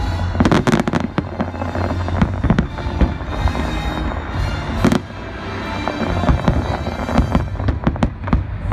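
Aerial fireworks bursting in quick succession, a dense cluster of bangs about half a second in and a single strong bang near five seconds, over background music.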